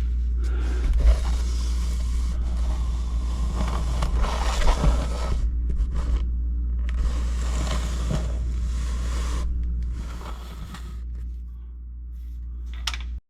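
Scraping and rustling handling noises that come and go irregularly with a few sharper knocks, over a steady low hum, growing quieter near the end.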